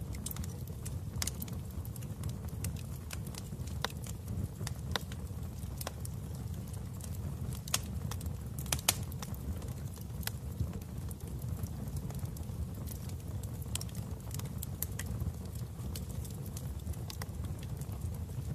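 Wood fire crackling in a fireplace: irregular sharp pops and snaps over a steady low rumble of the flames, with two louder pops about eight and nine seconds in.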